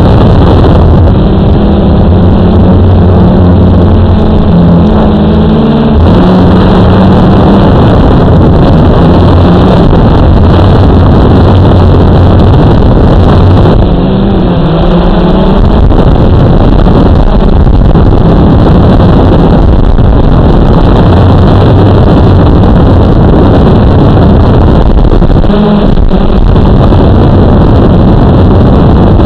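Blade 350 QX quadcopter's electric motors and propellers running loud and steady in flight. The motor pitch shifts up and down a few times as the craft manoeuvres.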